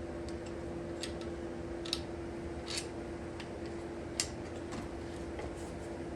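A few scattered light clicks and taps of metal parts and tools being handled during alternator installation on an engine, over a steady background hum.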